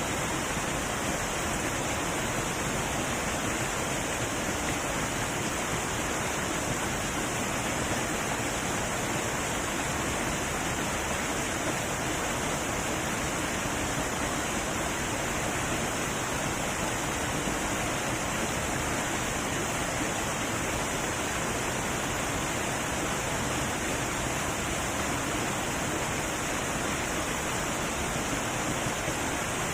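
Heavy waterfall rushing steadily, an even roar of falling water with no breaks or other sounds.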